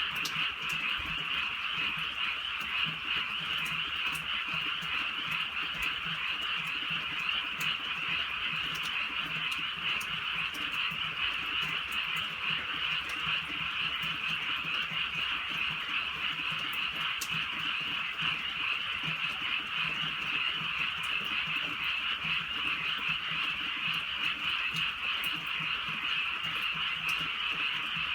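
A steady, dense chorus of many frogs calling at once on a drizzly night, with faint ticks of light rain.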